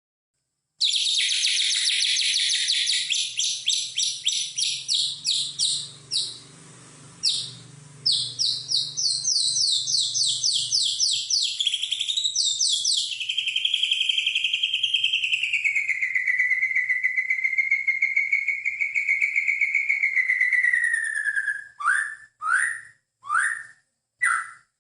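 A songbird singing loudly: a fast run of rapidly repeated high notes, then a long wavering whistle, and a few short downslurred whistles near the end.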